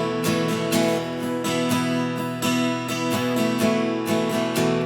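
Seagull S6 Mahogany acoustic guitar strumming chords in a steady rhythm, with no voice.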